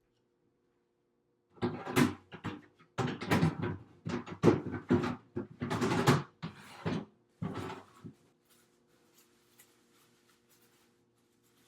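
Plastic refrigerator drawers and their contents being handled, a run of clattering knocks lasting about six seconds, then only a few faint ticks. A faint steady hum runs beneath.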